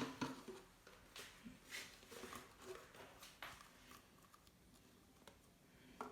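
Faint handling noises from a plastic fabric-softener bottle: a few soft clicks and rustles, scattered and spaced out, with a slightly louder knock near the end.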